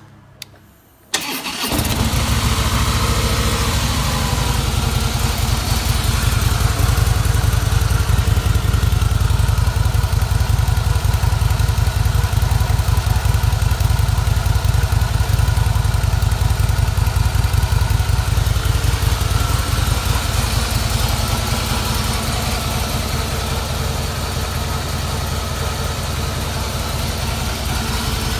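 Two short clicks, then the 2017 Harley-Davidson Breakout's Twin Cam 103 V-twin is started and catches about a second in, settling into a steady, loud idle with a rapid low pulsing beat.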